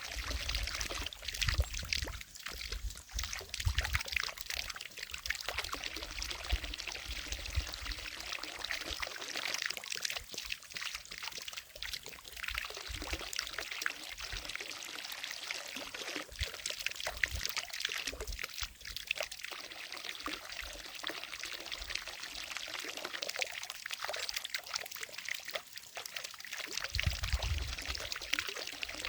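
Water falling from a fountain into a lake, a steady splashing patter with bursts of low rumble that come and go.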